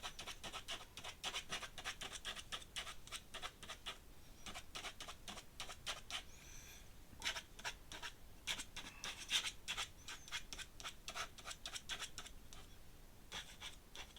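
Dip pen's metal nib scratching across paper in quick, irregular short strokes while inking a drawing.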